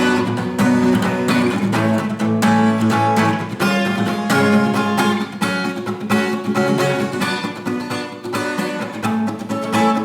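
Acoustic guitar strummed in a steady rhythm, playing the song's chord progression in F-sharp minor (F♯m, Bm, A, C♯) without singing.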